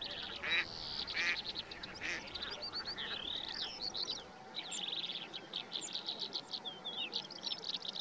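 Wild birds calling. There are a few short, lower calls in the first two seconds, then many quick high chirps, trills and twitters of small birds.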